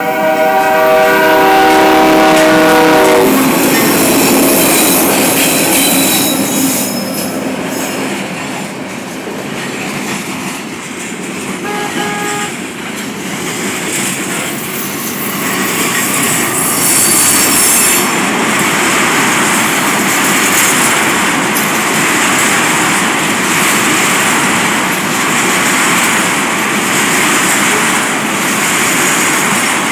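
Loud freight train passing at speed: the diesel locomotive's air horn blows a chord for about three seconds as it arrives, then the freight cars rumble and rattle past, with high-pitched wheel squeals now and then.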